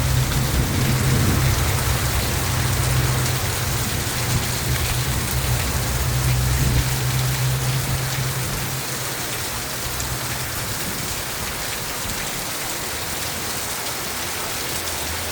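Storm rain falling steadily, with a long low rumble of thunder through the first half that fades out about nine or ten seconds in.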